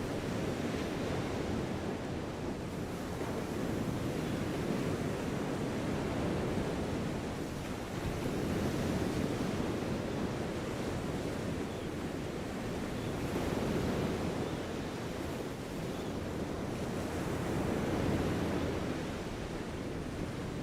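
Outdoor ambience at the Manhattan Bridge: a steady low rushing wash that swells and eases every few seconds, with no distinct single event.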